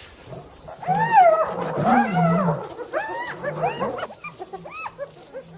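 Spotted hyenas calling: a run of rising-and-falling whining yelps over low growls. The calls are loudest in the first half, then come shorter and fainter toward the end.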